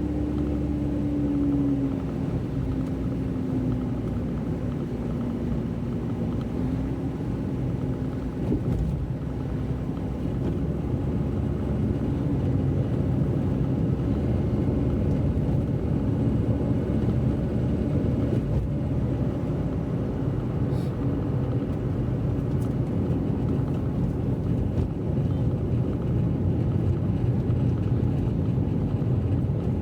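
Car on the move: steady engine and road noise. The engine note drops slightly in pitch over the first couple of seconds, then holds steady.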